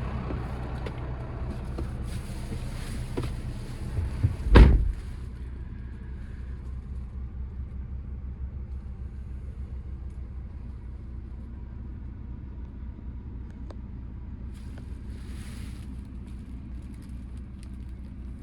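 Scania P280 truck's diesel engine idling steadily, with one loud thump about four and a half seconds in and short spells of hiss.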